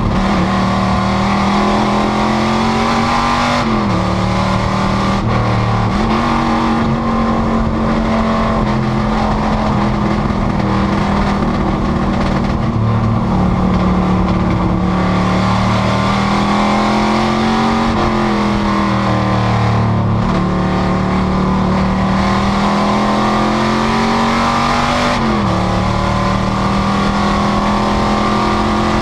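Panoz GTS race car's engine running hard at speed. Its pitch climbs slowly and then drops sharply three times, as at upshifts between long stretches of acceleration.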